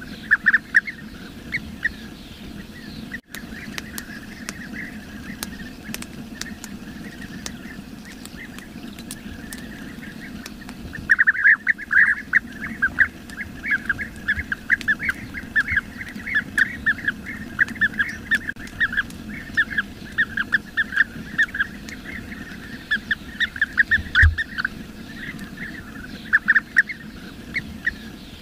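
Bee-eaters calling: quick, short, repeated calls, a few at first, then a dense chatter from about a third of the way in. One brief low thump near the end.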